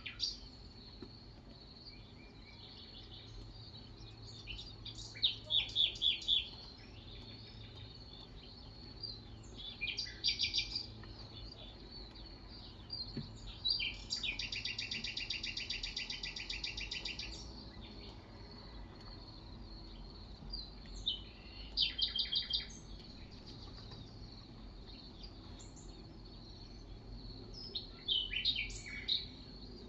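Birds chirping: short bursts of quick, high repeated notes several times, and a longer fast trill about halfway through.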